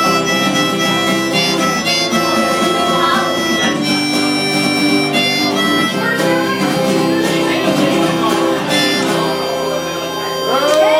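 Live band playing the instrumental ending of a country song: a lead instrument holds long melody notes over strummed guitar. Cheers and whistles from the crowd start just at the end.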